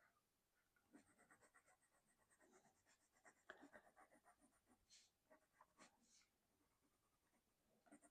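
Faint colored pencil strokes scratching on sketchbook paper in a quick run of short strokes, stopping a little past the middle, then starting again near the end.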